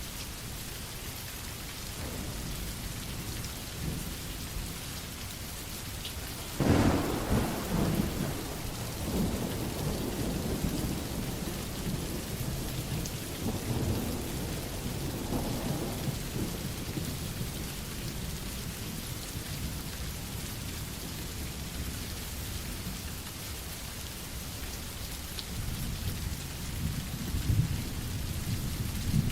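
Steady rain with thunder. About seven seconds in, a sudden loud clap rolls on as rumbling for several seconds, and another low rumble comes near the end.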